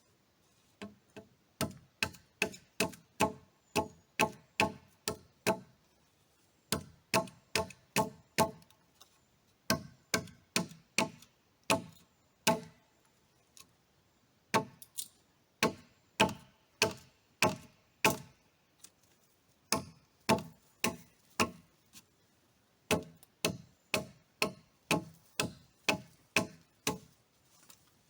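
Blows of a hand tool striking wood on a log-cabin build, a little over two per second in runs of several strikes with short pauses between, each blow with a brief ringing tone.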